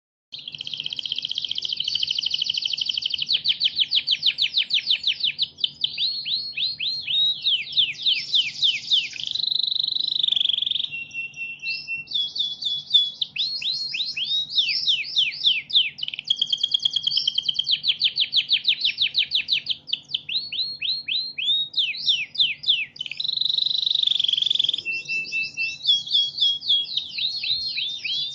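Recorded songbird song played as a masteran training track: a long, unbroken, fast chattering string of quick falling notes and trills, with a few short steady whistles, over a faint steady low hum.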